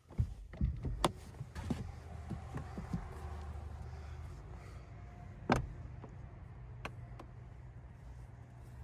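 Low, steady vehicle cabin rumble inside a 2024 Cadillac Escalade ESV that starts abruptly, with several sharp clicks and knocks in the first two seconds and a louder knock about five and a half seconds in.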